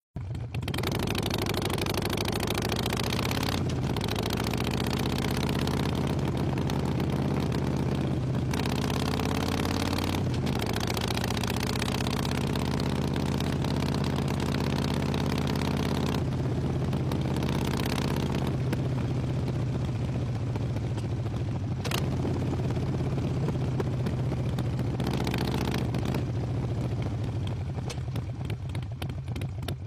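Harley-Davidson bobber's V-twin engine running on the move, climbing in pitch through the gears with short breaks at the shifts a few seconds in and around eight and ten seconds, then holding a steady cruise.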